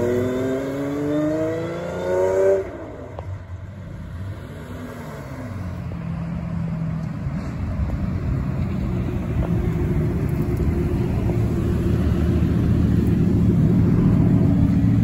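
A supercar engine revs up and accelerates away, its pitch rising, until the sound cuts off abruptly about two and a half seconds in. After that, hypercar engines in a slow-moving convoy, with a Pagani Zonda among them, run at low speed with a steady low note that grows louder as they approach.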